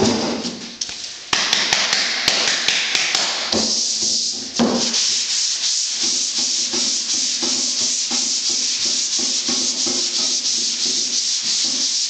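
Sandpaper on a sanding block being worked back and forth in quick repeated strokes, dry-sanding a guide coat off polyester primer on a car door panel.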